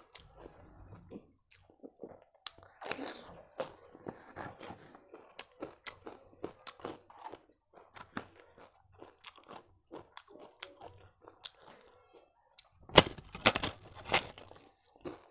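Chewing, heard as many small clicks and crunches, then a few loud, crisp crunches about 13 seconds in as a papad (thin lentil wafer) is bitten into.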